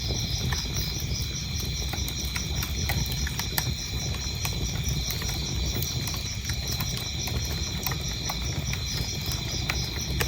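Wood fire crackling, with scattered sharp pops over a low rumble, while crickets chirp in a high, evenly pulsed rhythm of about three chirps a second.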